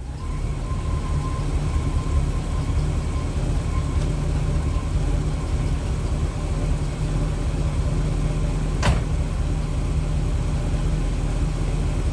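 Avanti II's Chevrolet V8 idling steadily through its dual exhaust just after startup, with a single sharp click about nine seconds in.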